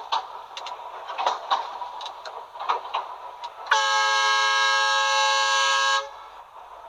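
A horn sounds once, a loud steady chord held for about two seconds, starting near the middle and cutting off sharply. Around it is the running noise of a tram on rails, with regular clacks.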